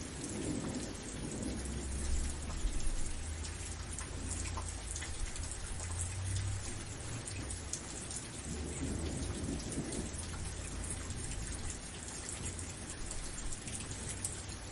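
Steady rain with many small drop ticks, under a low rumble of thunder through most of it.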